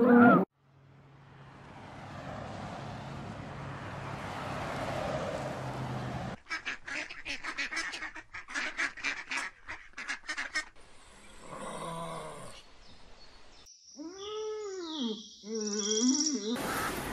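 Mallard duck quacking in a fast run of calls, after several seconds of a rising rushing noise. A calf moos a few long calls near the end.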